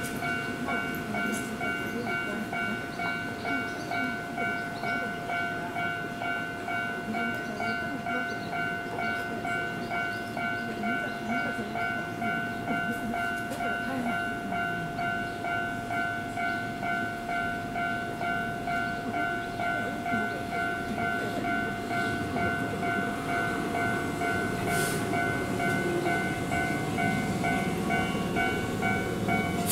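Keihan 1000 series electric commuter train rolling into the station and braking to a stop, over a steady high electric hum. There is a short hiss of air near the end.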